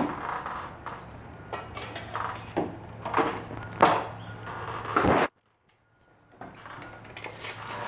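Several sharp knocks and clatters of hard objects being handled, over a steady low hum. The sound cuts out suddenly for about a second a little past the middle, then the hum and light clicks resume.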